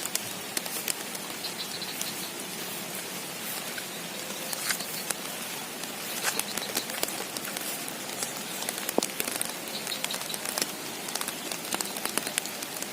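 Steady rain falling, with many sharp drop hits pattering close by.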